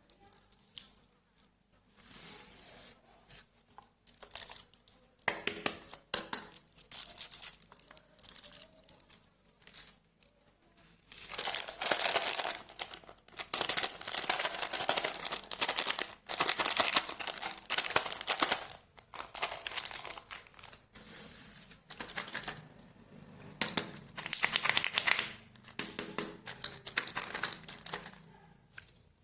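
Candy and chocolate wrappers crinkling and tearing as they are opened, in irregular bursts of crackling that are loudest in the middle.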